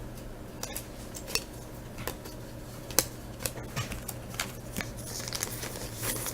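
Trading cards and foil pack wrappers being handled on a table: scattered light clicks and taps, with a soft rustle near the end.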